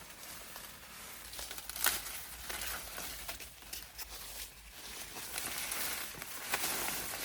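Plant leaves and stalks being handled: rustling and crinkling with several sharp snaps and clicks.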